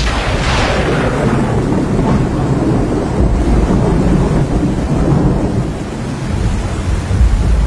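Thunder rumbling long and low over steady rain, brighter in the first second or two and then settling into a deep roll.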